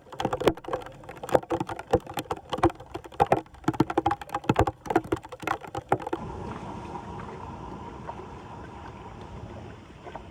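Rapid, irregular sharp clicks and knocks for about six seconds, then an abrupt change to a steady rushing noise.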